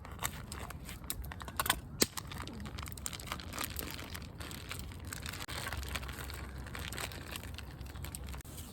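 Crinkling and rustling, made of many small clicks, with a few sharper clicks in the first two seconds.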